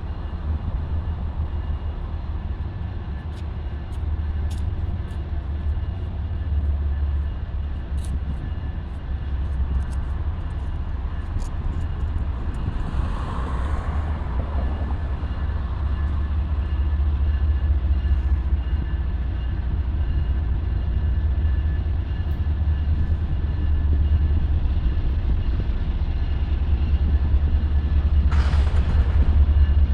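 Low, steady rumble of an approaching BNSF diesel freight train, growing slowly louder. A rushing sound swells and fades about halfway, and a short hiss comes near the end.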